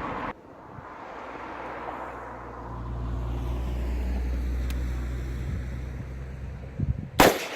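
A low engine drone of something passing by swells to a peak midway and fades away. Near the end a single rifle shot rings out, the loudest sound; it hits the ground short of the target.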